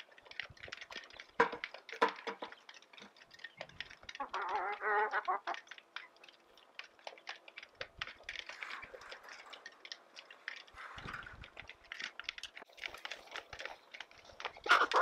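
Goats chewing and crunching on sweet feed and greenbrier vines: many short, irregular crunches and clicks. About four seconds in comes one wavering animal call lasting over a second.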